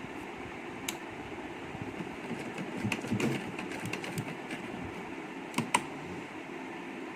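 Light clicks, taps and rustles of cotton cloth being handled and folded into pleats by hand, over a steady background hiss; the sharpest two clicks come close together near the end.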